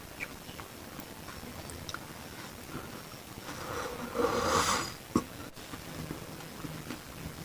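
Close-miked eating sounds: faint wet clicks of chewing grilled beef satay, with a louder, longer mouth noise about four seconds in followed by a sharp click.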